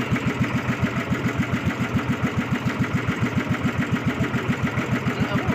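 Bangka boat engine idling, a steady rapid thudding of about eight or nine beats a second.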